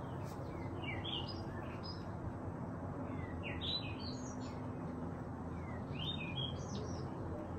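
A songbird singing short phrases of quick up-and-down notes, three in a row a couple of seconds apart, over a steady low background rumble.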